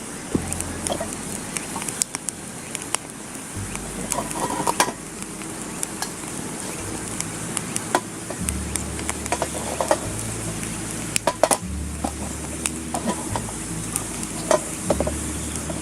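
Wood campfire crackling with a steady sizzling hiss and frequent sharp pops and clicks.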